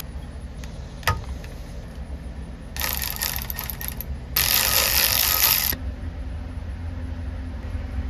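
Two bursts of hiss, each about a second and a half long, starting about three and four and a half seconds in, over a steady low hum. A small click comes about a second in.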